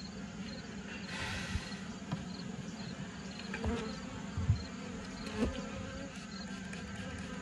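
Honeybees buzzing in a steady hum around an open hive. A brief hiss comes about a second in, and a few light knocks follow, the sharpest about four and a half seconds in.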